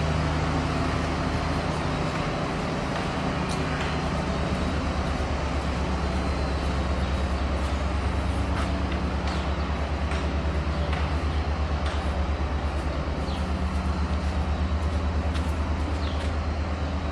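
Steady low drone of running machinery with a fast, even pulsing.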